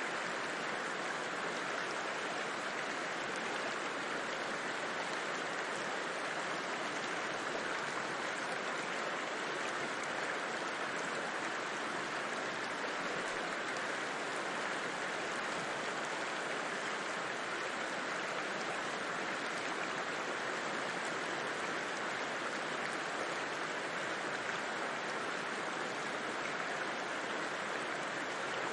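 River water rushing in a steady, unbroken flow, with no breaks or single splashes.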